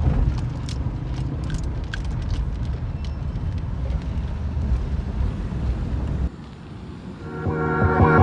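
Steady low rumble of a vehicle on the move, with a few faint clicks over it; it cuts off suddenly about six seconds in. Music starts just before the end.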